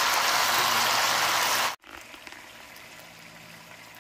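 Beef and snow peas sizzling in a hot frying pan: an even hiss that stops abruptly about halfway through, leaving only a faint hiss.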